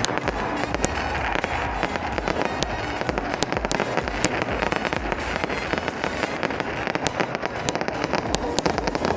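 Fireworks going off in a dense, unbroken barrage of crackling and many sharp cracks.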